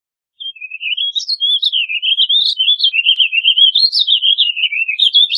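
Warbling vireo singing: one long, fast warble of notes rising and falling, starting about half a second in.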